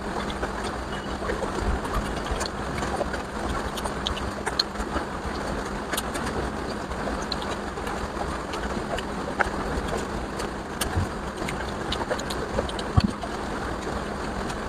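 Eating sounds: chewing, with scattered wet smacks and clicks from mouthfuls of curry and rice, over a steady background hiss and low hum.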